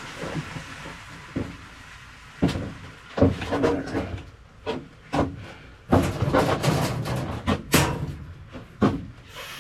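A run of irregular knocks and scrapes, hard objects being handled, rummaged through and set down, picking up about two and a half seconds in.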